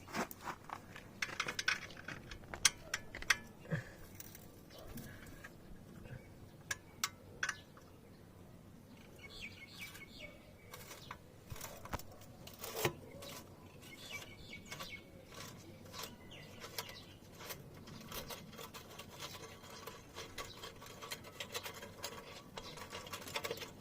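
Hand tools clicking and clinking against metal at irregular intervals while the motorcycle's exhaust bolts are undone with a box spanner and Allen key, with birds chirping faintly in the background.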